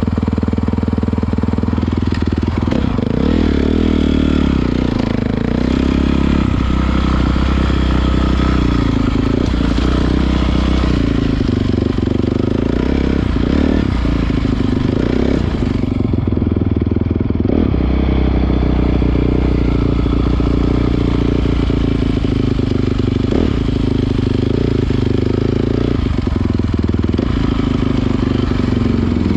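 Honda CRF450R dirt bike's single-cylinder four-stroke engine running while riding, its revs rising and falling again and again as the throttle is worked.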